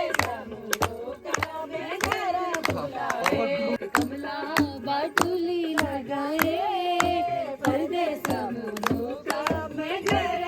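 Voices singing a song together, with steady rhythmic hand clapping, about two to three claps a second, keeping the beat.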